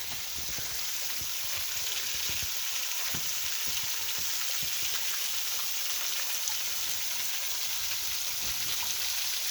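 Steady hiss of water falling and splashing at a waterfall.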